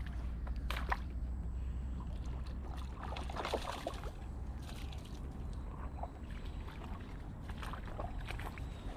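Water sloshing and splashing with scattered light clicks and knocks, over a steady low rumble of wind on the microphone.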